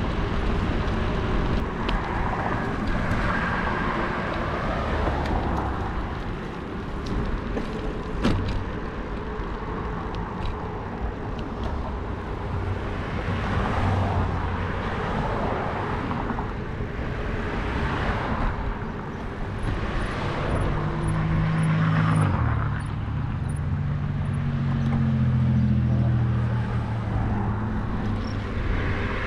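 Road traffic with cars passing several times, rising and fading every few seconds, over a steady rumble; a vehicle engine hums low in the second half.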